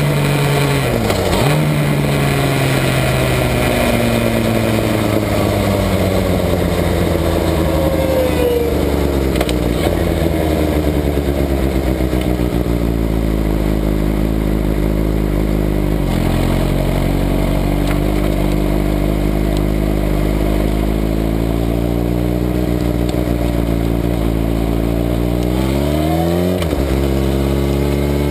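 Sport motorcycle engine with a carbon-fibre exhaust silencer running at low revs, its pitch easing down over the first couple of seconds and then holding a steady low note. Near the end the revs rise briefly and drop back.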